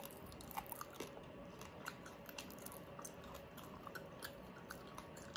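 Faint chewing, with scattered small crackles and clicks from crispy pata (pork knuckle) skin being torn apart by hand and eaten.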